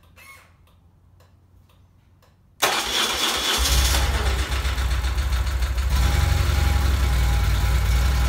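Car engine cold start: a few faint clicks for about two and a half seconds, then the engine fires suddenly and runs loudly and steadily.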